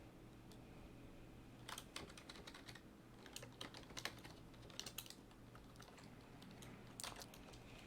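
Computer keyboard typing: several short bursts of key clicks separated by pauses, faint over a low electrical hum.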